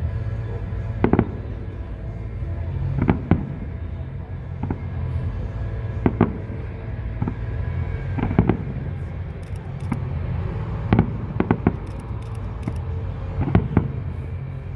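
Aerial fireworks bursting: about ten sharp bangs, spaced a second or two apart, with a quick run of three about eleven seconds in. A steady low hum runs underneath.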